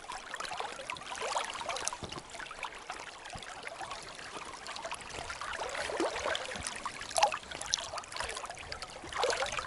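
Running river water, a steady trickling and gurgling, with a few faint short splashes or knocks.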